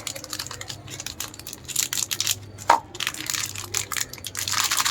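Product packaging being handled, crinkling and crackling irregularly, with a single sharp snap about two and a half seconds in and a denser stretch of crackling near the end.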